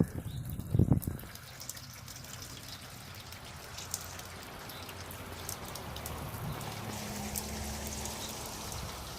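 Water being poured into a rain gutter, running and trickling steadily, with a few sharp knocks in the first second.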